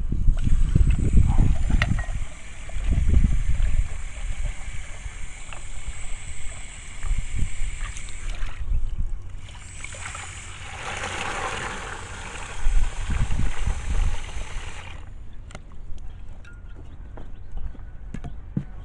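Water running from a hose into a cat's water bowl in two stretches: a steady hiss for about eight seconds, then, after a brief pause, a fuller splashing fill for about five seconds. A low rumble from wind on the microphone runs underneath.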